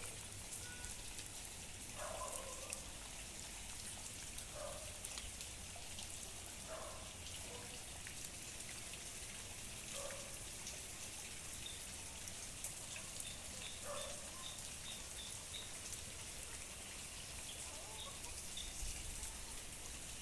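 Heavy rain falling steadily, an even hiss with scattered drips and splashes.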